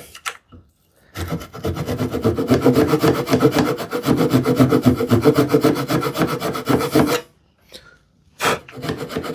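Hand saw cutting wood in quick, short strokes: a steady run of sawing about a second in, a brief pause, then more strokes near the end.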